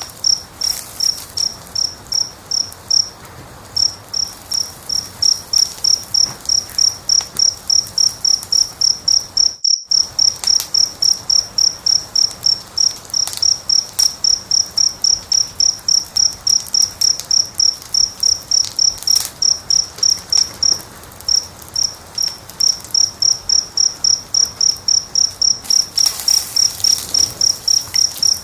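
A cricket chirping steadily, about three short high chirps a second with a couple of brief pauses, over faint crackling of a wood fire. All sound drops out for a split second nearly ten seconds in.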